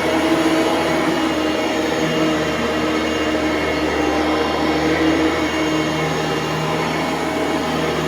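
Bissell Pro Lite canister vacuum cleaner running loudly and steadily, a constant motor whine over the rush of air, as it vacuums a living room floor.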